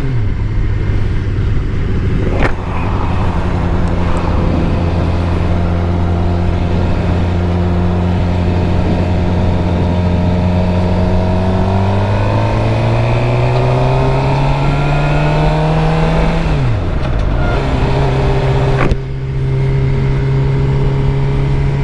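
2013 Suzuki GSX-R 600's inline-four engine running under way, with wind rushing over the microphone. It holds a steady pitch, rises as the bike accelerates about twelve seconds in, dips briefly a few seconds later, then settles at a higher steady pitch.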